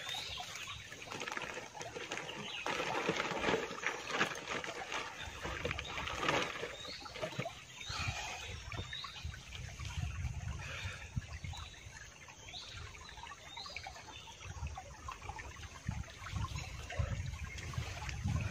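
Outdoor rural ambience with a bird repeating short rising chirps every second or so. There is a louder burst of rustling a few seconds in and a low rumble in the second half.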